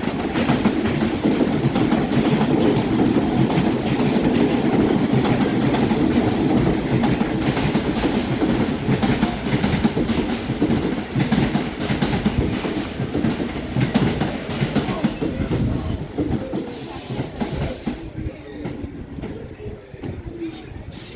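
New York City subway train running on the rails: a steady rumble with the clickety-clack of wheels over rail joints. The noise eases off over the last few seconds, and a brief hiss comes about 17 seconds in.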